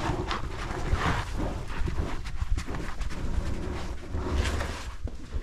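Scuffing footsteps on rock and loose dirt as a person climbs down, with a rumbling handling noise on the microphone.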